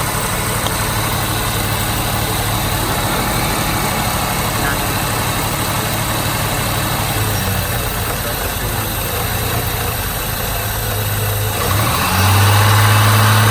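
Nissan TB42 4.2-litre straight-six petrol engine of a GQ Patrol idling steadily, then revved near the end, getting louder and rising in pitch.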